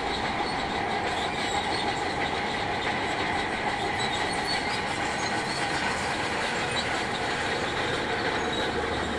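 Shantui DH17C2 crawler bulldozer running steadily, its diesel engine and steel tracks making a continuous grinding, clanking noise.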